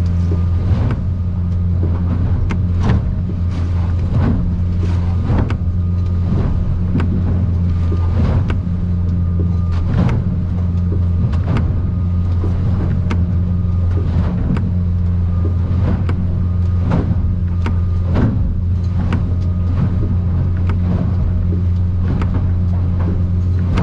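Outboard-powered aluminium boat's motor droning steadily under way, with the hull slapping and banging on waves about once a second in rough chop.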